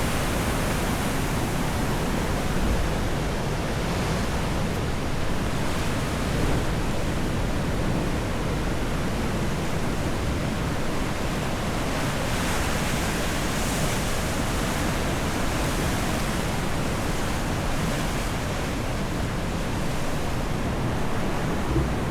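Sea surf washing onto a beach, a steady rush of breaking waves with slight swells, mixed with wind on the microphone.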